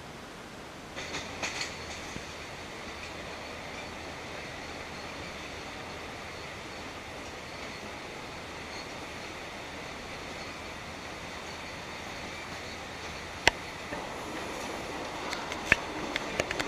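Passenger train carriage running along the track, a steady rumbling noise with a few sharp clicks and knocks near the end.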